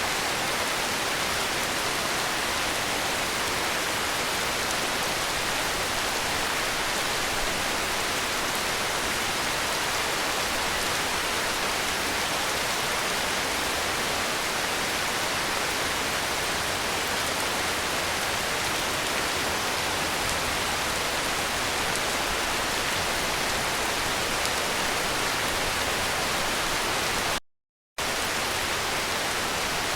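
Steady heavy rainfall, an even dense hiss with no single drops or thunder standing out. Near the end the sound cuts out completely for about half a second, then resumes.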